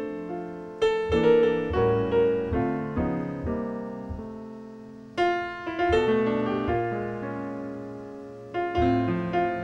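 Solo piano music: phrases of struck notes that ring and fade away, with new phrases starting about a second in, about five seconds in, and near the end.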